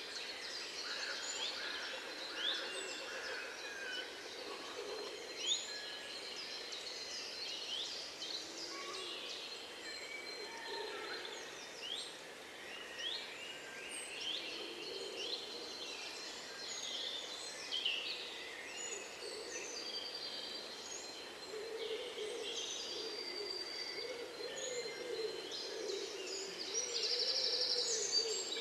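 A chorus of several wild songbirds: many short chirps, quick rising and falling whistles and twitters overlapping, with a brief dense buzzy trill near the end.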